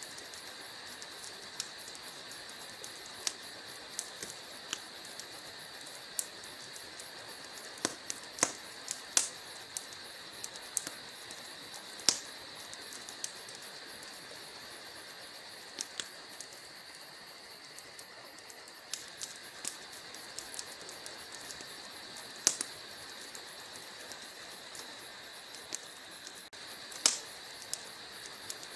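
Wood logs burning in a fireplace: a steady hiss with irregular sharp crackles and pops, a few louder snaps among many small ones.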